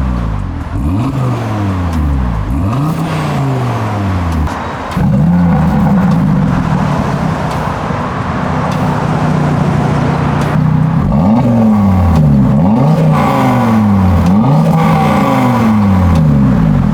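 Audi TT RS's turbocharged 2.5-litre five-cylinder engine revved through a Milltek GPF-back exhaust: a series of quick blips rising and falling, then held at raised revs for about six seconds from five seconds in, then more quick blips. The sound cuts off abruptly at the end.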